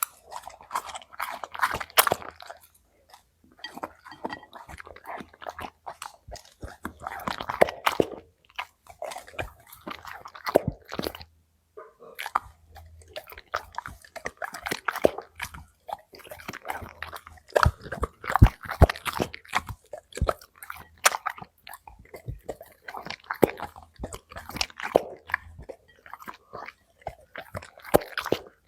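A Labrador retriever chewing and crunching food, with irregular crunchy bites and brief pauses.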